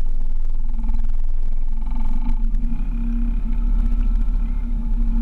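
Outboard motor driving a small boat under way, a steady pitched hum with heavy low wind rumble on the microphone.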